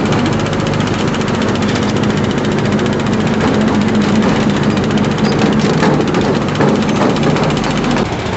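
Construction-site engine running steadily with a fast, even pulsing, typical of concrete machinery working during a concrete pour; its hum drops away near the end.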